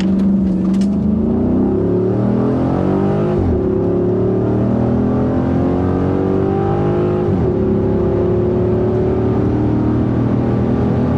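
Chrysler 300 SRT8's 6.4-litre Hemi V8 accelerating hard through the gears. The engine note climbs steadily, drops sharply at an upshift about three and a half seconds in, climbs again, shifts again near seven and a half seconds, and pulls up once more.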